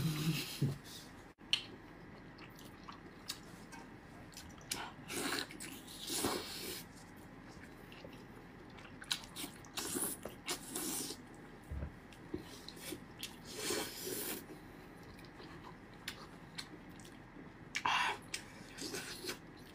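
Close-miked eating of fatty pork intestine in chili oil: wet chewing, sucking and smacking sounds that come in scattered short spells with quiet gaps between them.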